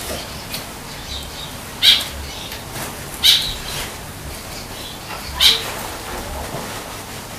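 A bird calling offscreen: three short, sharp calls at irregular gaps of about one and a half to two seconds.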